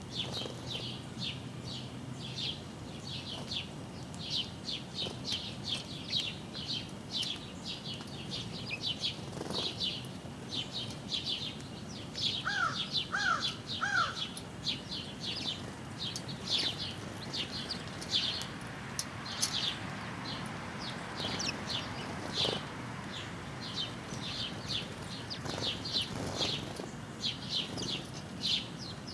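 Small birds chirping continuously with short, high, rapid notes. About twelve seconds in, three lower, arched call notes sound one after another.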